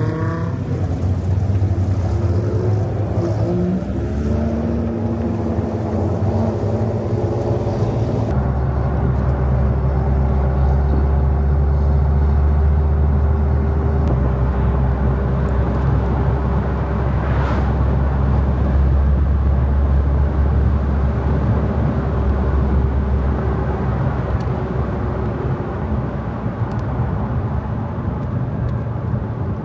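Dodge Viper's V10 engine while driving: in the first few seconds its note climbs and drops back as it accelerates and shifts, and from about 8 s in it holds a steady low drone with road noise as the car cruises.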